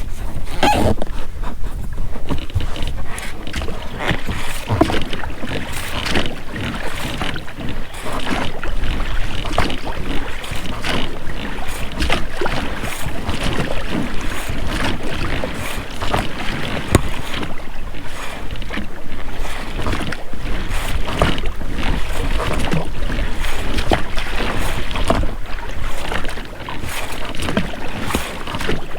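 Oars of an inflatable rowing boat dipping and splashing in the water, with the rubber rowlocks squeaking and knocking on each stroke. It goes on steadily as a string of short strokes.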